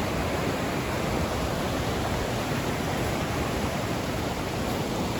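Mountain stream rushing, a steady, unbroken noise of flowing water.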